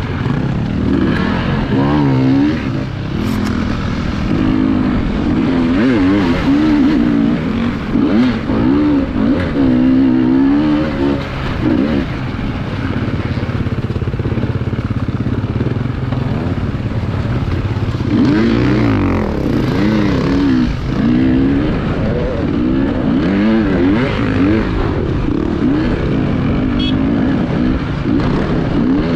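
Off-road enduro motorcycle engines revving up and down unevenly, the throttle blipped again and again as the riders work through rough terrain.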